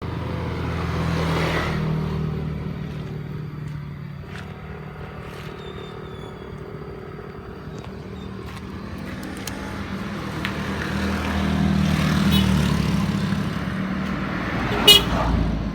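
Yamaha R15's single-cylinder engine running through a Proliner TR1 short aftermarket exhaust, mostly at idle with two mild swells in engine speed, about a second in and again near the end. A sharp knock sounds just before the end.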